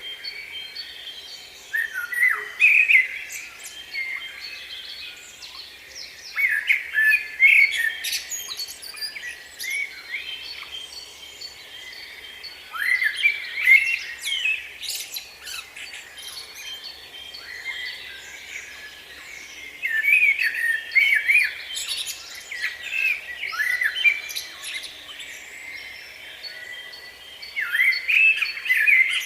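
Songbird singing: short phrases of quick up-and-down notes, each about two seconds long, repeated every five to seven seconds, with fainter chirps in between.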